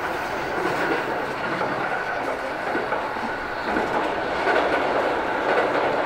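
Moving train heard from inside the carriage: steady running noise of wheels on rails with a clickety-clack over rail joints. It grows louder about four seconds in as the train runs onto a steel truss bridge.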